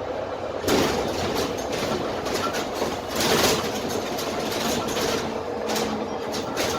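Dennis Trident double-decker bus with a Cummins ISMe diesel engine on the move, heard from inside the lower deck: steady engine and road noise with body panels and fittings rattling. A louder rattling clatter comes about a second in and again around three seconds in.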